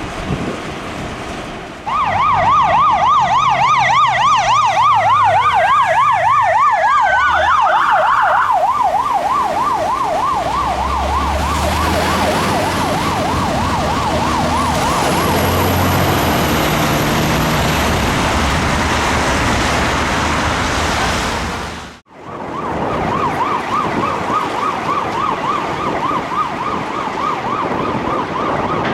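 Emergency vehicle siren on a fire appliance, sweeping rapidly and evenly up and down in pitch over the low rumble of a vehicle engine. It starts about two seconds in, cuts out briefly near the end, then resumes.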